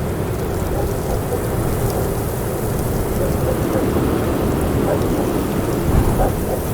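Strong wind blowing hard and buffeting the microphone in a steady low rumble, with a stronger gust about six seconds in.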